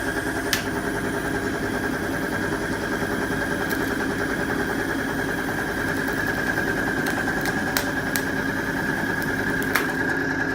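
Oil lubricity test machine running steadily, its motor and loaded test bearing turning in an oil bath fouled with sand and water and giving a steady high whine. A few sharp ticks come through at irregular moments.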